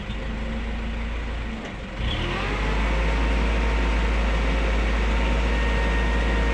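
A motor vehicle's engine running close by. It gets louder about two seconds in, its pitch rising briefly before holding steady.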